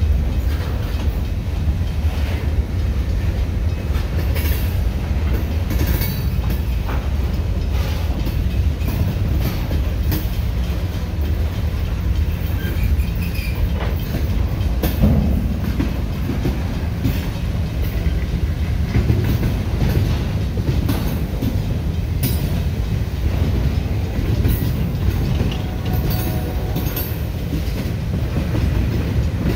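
Freight cars of a passing train (open-top hoppers, gondolas and a tank car) rolling by close at hand: a steady heavy rumble of steel wheels on the rails, with irregular clicks and clacks as the wheels cross rail joints.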